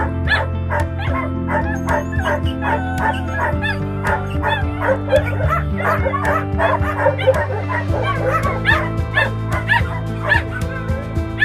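Dogs yipping and barking in many short, overlapping calls, several a second, over background music of held chords that change twice.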